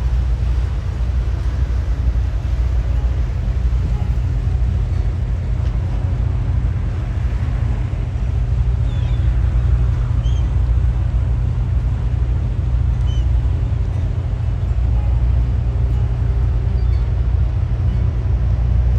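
Fishing boat's diesel engine running with a steady low drone, with a few faint high chirps about halfway through.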